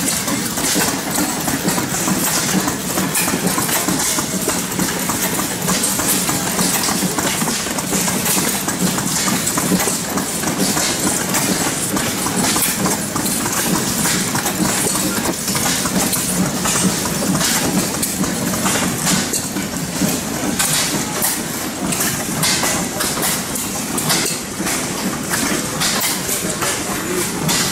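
Antique stationary gas engines running, a steady hum overlaid with a dense, irregular clatter of knocks.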